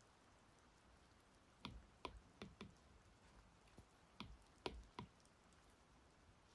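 Light taps of a stylus on a tablet's glass screen: four quick taps, then three more about two seconds later, over near silence.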